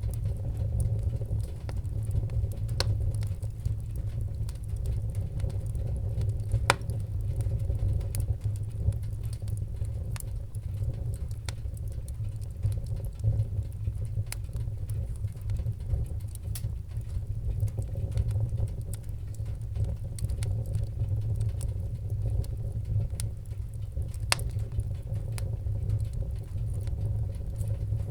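Wood fire crackling in a fireplace: a steady low rumble with irregular sharp pops and crackles, a few of them louder, the loudest about seven seconds in.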